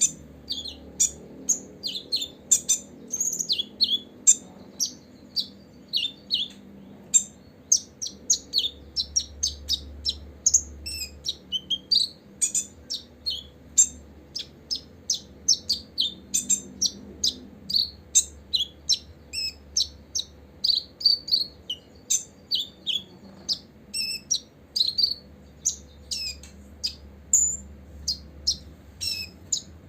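Copper-throated sunbird chirping: a fast, unbroken run of short high-pitched chirps, two or three a second.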